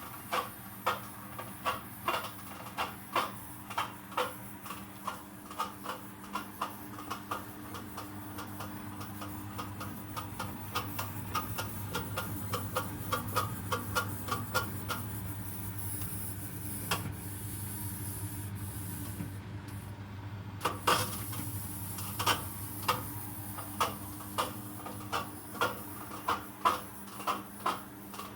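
Samsung washing machine running with a steady low motor hum and a rattling, cracking noise: sharp clicks at about one to two a second, coming faster in the middle and pausing briefly about two-thirds in. The noise is an abnormal fault sound of unknown cause.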